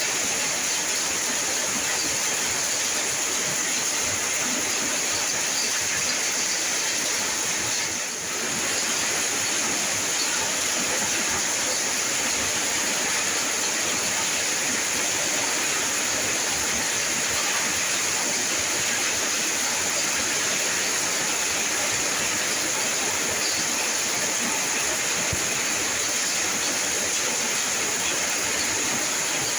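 Steady heavy rain, an even hiss with no breaks except a brief dip in level about eight seconds in.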